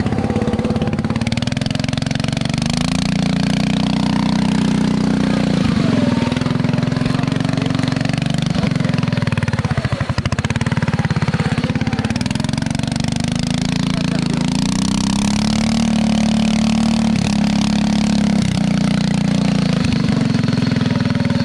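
Riding lawn mower engine running under load on a rough trail, its pitch dipping and picking back up several times as the throttle and load change, with rattling noise over it.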